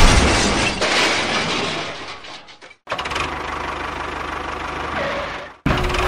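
Engine-type running noise in clips cut together. A loud, noisy burst at the start fades away over about two and a half seconds. A steady engine hum follows, and it cuts off abruptly near the end.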